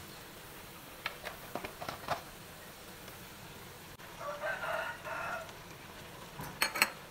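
A few light clicks in the first two seconds, then a bird call about a second long, holding several steady pitches, and a short cluster of louder clicks near the end.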